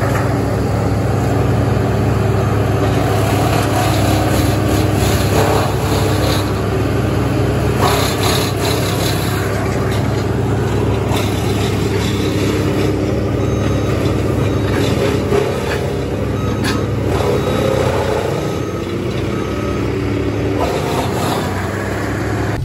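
Heavy diesel land-clearing machine running steadily under load, with a few sharp cracks scattered through it.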